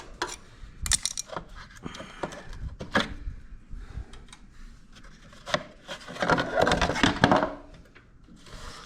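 A paint scraper scraping and knocking against a riding mower's metal deck, cleaning off caked grass and dirt: scattered scrapes and clicks, with a longer, louder bout of scraping a little past the middle.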